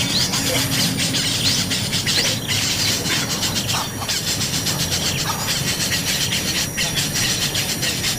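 Hungry baby birds begging to be fed, a continuous high-pitched cheeping with quick repeated notes.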